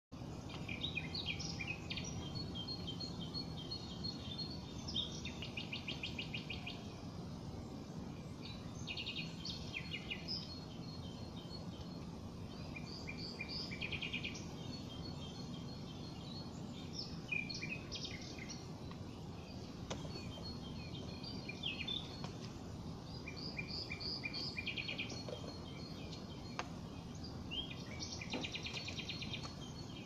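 Wild songbirds calling and chirping repeatedly, with short rapid trills every few seconds, over a steady low background rumble.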